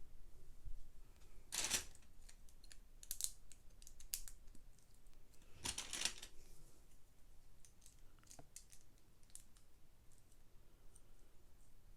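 Plastic LEGO pieces being handled and pressed together: scattered light clicks, with two louder rattling, rustling bursts about two seconds in and about six seconds in.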